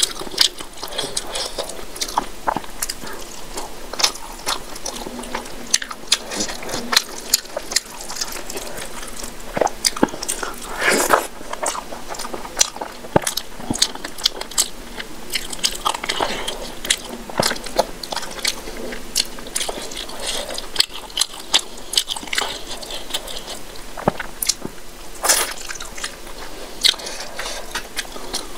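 Close-up eating sounds: chewing mouthfuls of rice and fish curry, with wet mouth smacks and many sharp clicks.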